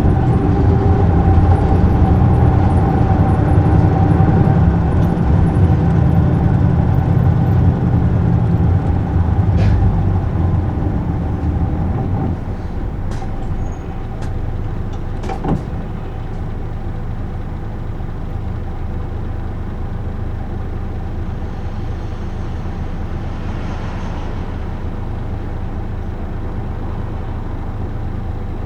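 Isuzu Erga PJ-LV234L1 city bus heard from inside the cabin, its diesel engine and drivetrain running under way. About twelve seconds in, the engine noise eases and settles to a quieter, steady level, with a single sharp click a few seconds later.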